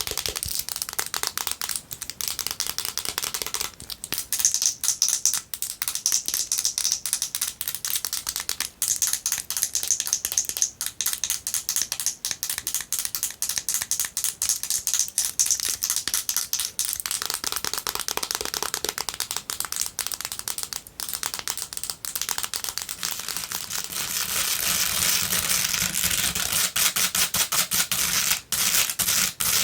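Long fingernails tapping and scratching fast and hard on a mini moisturizer bottle, a rapid stream of clicks. About 24 seconds in, the sound changes to scratching and tapping on a basket, fuller and more rasping.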